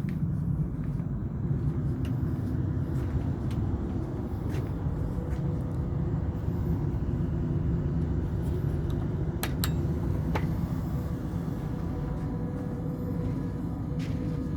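Steady low rumble of a vehicle, with a faint steady hum and a few sharp clicks late on.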